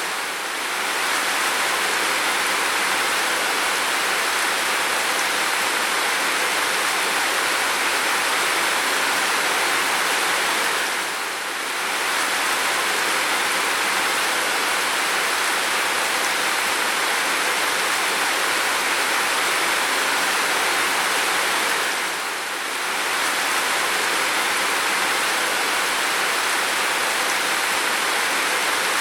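Heavy rain falling steadily, a dense even hiss with brief slight dips in level about every eleven seconds.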